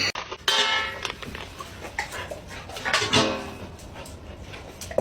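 A dog vocalizing in drawn-out whining cries, one about half a second in and another about three seconds in, with shorter cries between.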